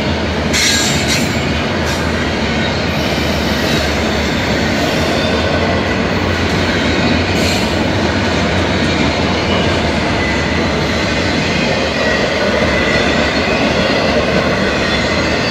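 Double-stack intermodal freight train rolling past: a steady rumble of steel wheels on rail from the loaded container well cars, with a few sharp clicks in the first two seconds and a thin high wheel squeal near the end.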